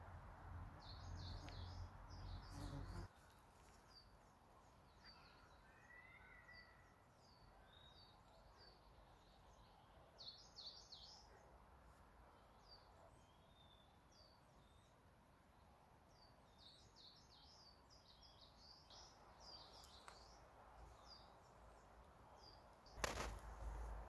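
Faint forest songbirds chirping and singing, many short high calls overlapping throughout. A low rumble on the microphone in the first three seconds cuts off suddenly, and a sharp knock comes near the end.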